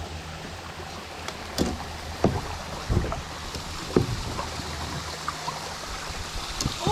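Water sloshing and lapping around a kayak, with a few short knocks or splashes about a second apart.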